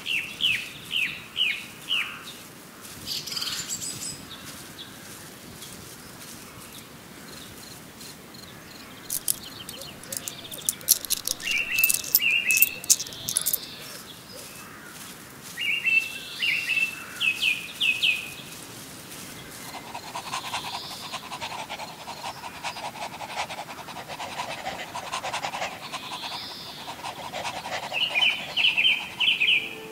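Birds chirping in short runs of quick, high notes that come back several times, with a patch of rapid ticking partway through.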